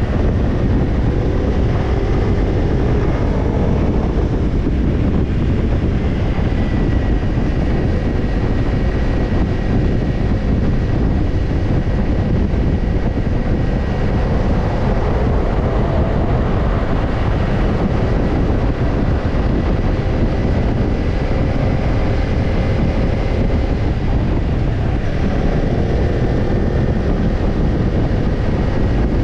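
Kawasaki Ninja 250's parallel-twin engine running through a BEET Nassert Evolution Type II black titanium slip-on muffler while the bike is ridden at a fairly steady pace, the engine note drifting only slightly. Heavy wind rush on the microphone is mixed in.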